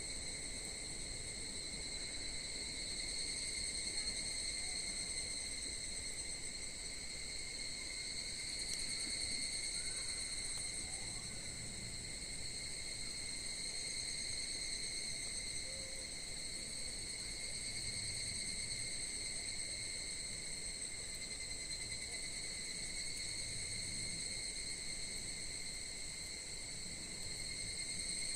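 Steady chorus of crickets trilling without a break, high-pitched and continuous.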